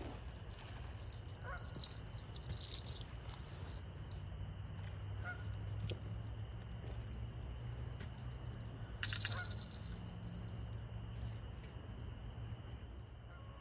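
Birds chirping and trilling in short high bursts, the loudest about nine seconds in, over a steady low hum.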